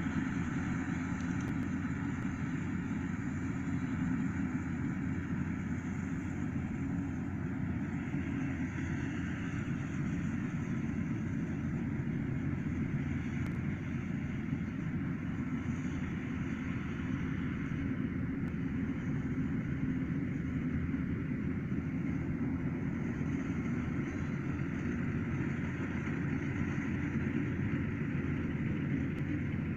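Rice combine harvester running steadily at a constant engine speed, a continuous low mechanical drone.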